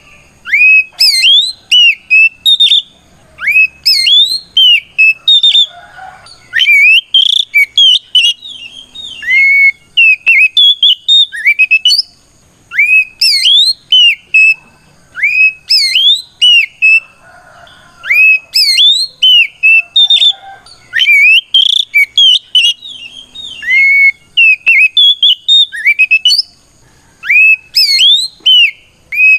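Oriental magpie-robin (kacer) singing a loud, full-voiced challenge song. It gives rapid clusters of clear whistled notes, many sweeping up or down, separated by brief pauses.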